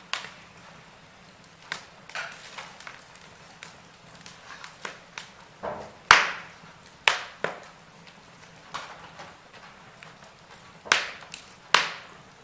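Wood fire crackling in a fireplace, with irregular sharp pops and snaps. The loudest come about six and seven seconds in, and twice near the end.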